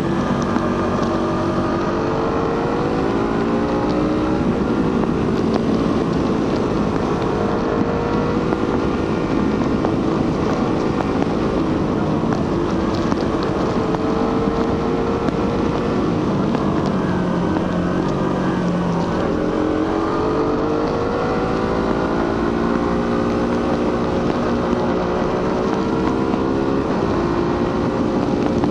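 Suzuki GSX-R150's single-cylinder 150cc engine on its stock exhaust, under way while riding. Its pitch rises and falls several times as the bike speeds up, shifts and slows.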